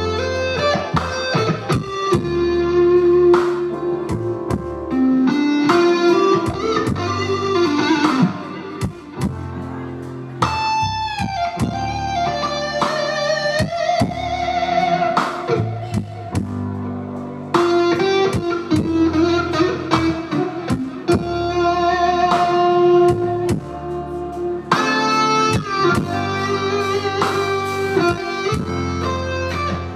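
A live blues-rock band playing loud, led by electric guitar with sustained, bent notes over bass and drums.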